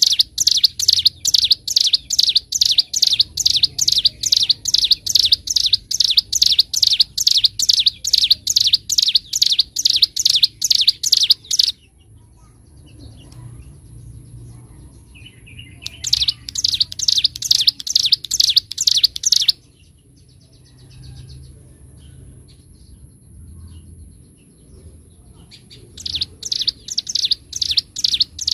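Ciblek gunung, a prinia, singing its fast, evenly repeated high notes. One long run stops about twelve seconds in, a short run follows a few seconds later, and another starts near the end.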